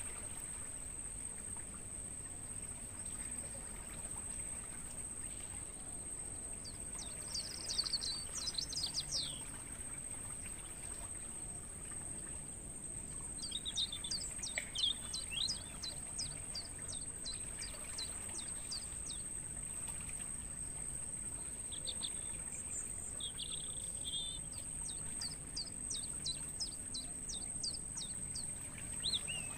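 Crickets trilling in a continuous, steady, high-pitched chorus. Songbirds call over it in bursts of rapid, sharp notes: once around 8 seconds in, again for several seconds from about 13 seconds, and again from about 22 seconds.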